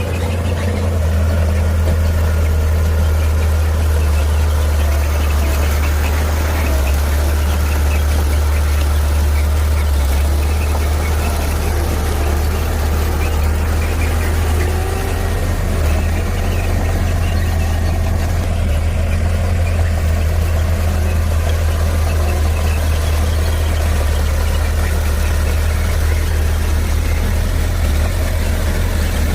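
Heavy diesel engine of earthmoving equipment running steadily with a deep, unbroken drone.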